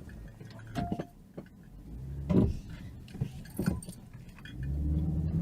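Scattered light rattles and knocks inside a car, then a car engine rumble that grows louder from about four and a half seconds in.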